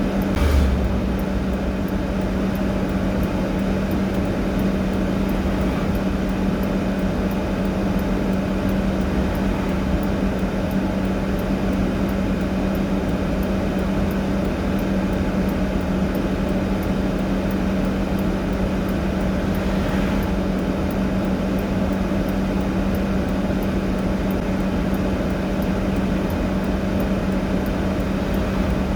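Steady, unchanging mechanical hum with a brief low thump about half a second in.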